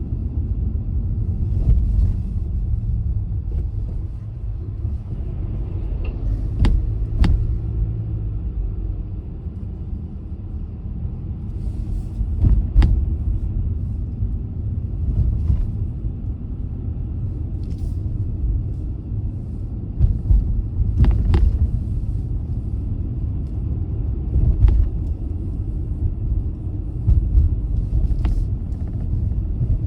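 Car driving on a snowy road: a steady low rumble of tyres and engine, broken by scattered sharp clicks and knocks every few seconds.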